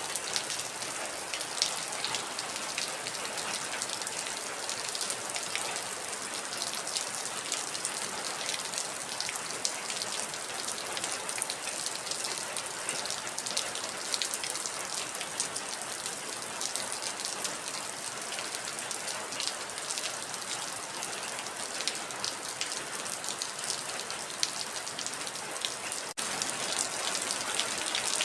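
Heavy rain falling steadily, a dense even hiss with many separate drops heard as sharp ticks close by. Near the end it breaks off for an instant and comes back slightly louder.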